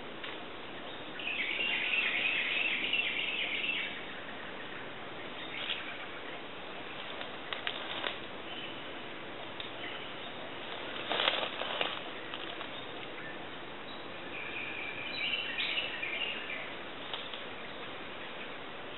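Small birds chirping high in the background in two bouts, one starting about a second in and lasting a few seconds, another near the end, over a steady ambient hiss. A few faint clicks and one short noisy burst fall in between.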